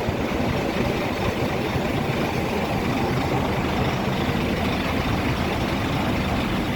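Scania coach engine running steadily: a low hum under an even rushing noise.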